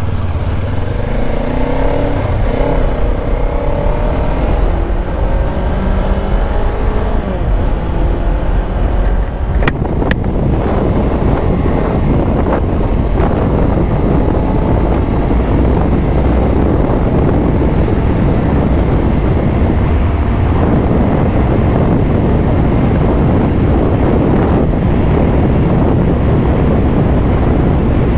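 Kawasaki Ninja 500 parallel-twin engine accelerating away from a stop, its pitch climbing through the gears. About ten seconds in, a steady rush of wind on the microphone at riding speed takes over.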